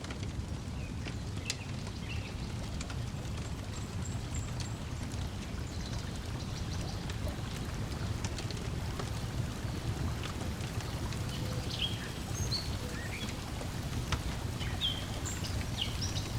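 Layered outdoor ambience: a steady low wash of lake water lapping, small crackles and pops of a wood fire, and short bird chirps scattered throughout.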